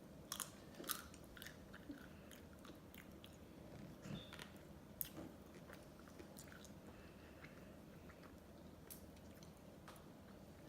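Close-miked mouth sounds of someone eating ice cream: soft chewing with sharp wet clicks and smacks, several in the first second, scattered through the next few seconds and sparser near the end.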